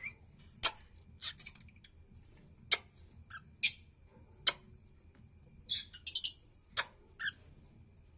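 Pet cockatiel giving short, sharp chirps and clicks, spaced irregularly about a second apart, with a quick run of chirps about six seconds in.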